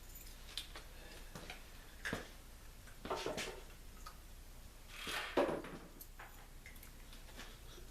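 Workshop handling noises: scattered light clicks and knocks, with louder clattering scrapes about two, three and five seconds in.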